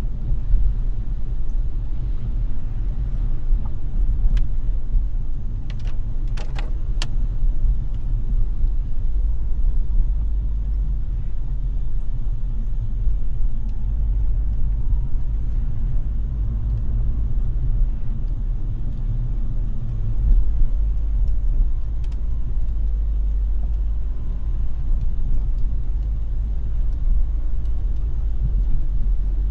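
Car driving on a wet road: a steady low rumble of road and engine noise, with a few sharp clicks about six to seven seconds in.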